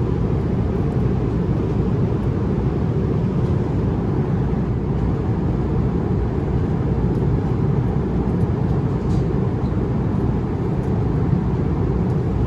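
Steady low roar of airflow and engines inside the economy cabin of an Airbus A350-900 in cruise.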